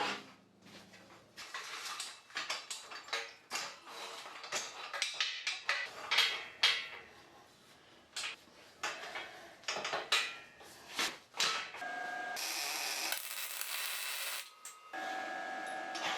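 Workshop work sounds: a long run of knocks, clicks and clatter of parts being handled, then a steady machine noise with a high whine from about twelve seconds in, breaking off briefly and starting again.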